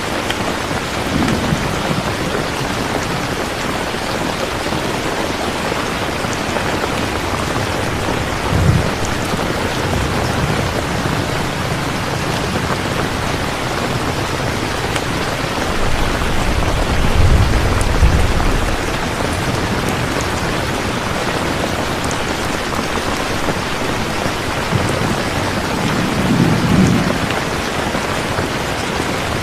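Steady heavy rain with rolls of thunder rumbling low several times, the longest and loudest a little past the middle.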